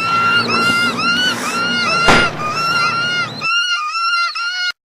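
Birds screeching in a rapid run of short, arched calls, about three a second, as in a bird attack. A loud sharp bang comes about two seconds in, and everything cuts off suddenly near the end.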